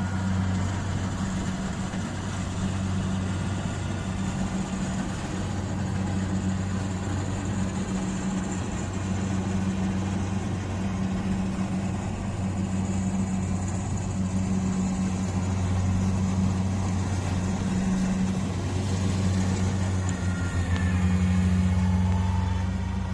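Kubota combine harvester's diesel engine running at a steady speed, an even low drone.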